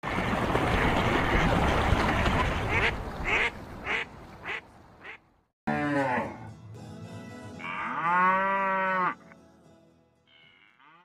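A cow mooing twice: a short moo about six seconds in, then a longer, held moo around eight seconds. Before it come several seconds of loud rushing noise that end in a few short pulses.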